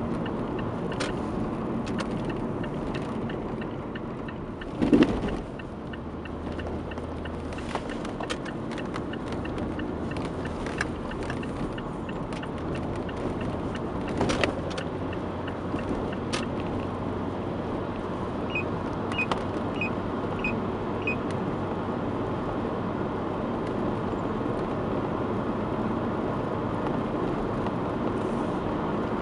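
Mazda 3 BK driving with steady road noise while the front suspension gives irregular knocks over bumps, the loudest about five seconds in and another around fourteen seconds. The knock comes from worn front ball joints and a worn right front shock absorber. A run of five short beeps comes about two-thirds of the way through.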